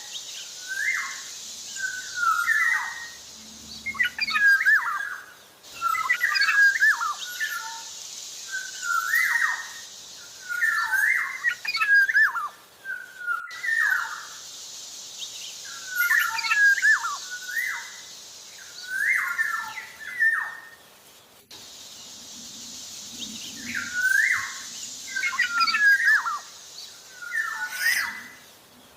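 Black-naped oriole singing in quick, repeated phrases of short slurred and swooping whistled notes, a phrase about every second. A steady hiss runs underneath.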